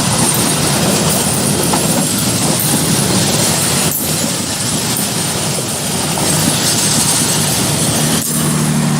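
Train rushing past at speed, a loud steady roar of wheels on rail with two sharp knocks a few seconds apart. A low steady hum comes in near the end.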